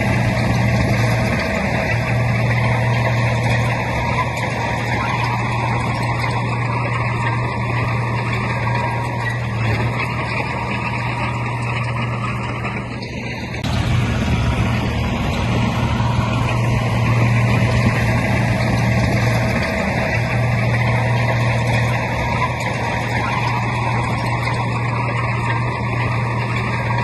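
Heavy diesel earthmoving machinery running steadily, an engine drone that drops out for a moment about halfway through and then comes back.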